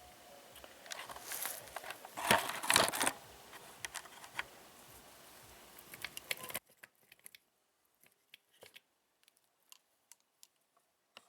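Rustling and handling noises with a few sharp clicks and knocks, loudest between about one and three seconds in, over a low background that cuts off abruptly partway through, leaving only faint scattered clicks.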